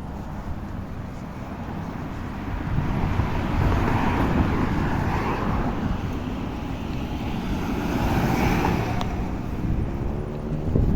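Road traffic going by, heard from a moving bicycle, with wind rumbling on the microphone. The noise swells as vehicles pass, about three seconds in and again near the end.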